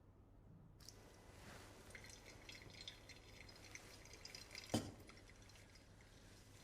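Near silence: faint room tone with a few soft scattered clicks, and one brief sound nearly five seconds in.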